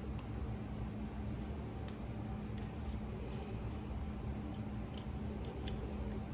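Faint small metal clicks and a brief scrape from a hand tool and screw working the front sight on a Glock 48 pistol slide, over a steady low hum.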